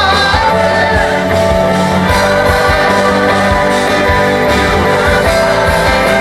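Live gospel praise band playing, with a steady drum beat, bass and held chords, and voices singing over it.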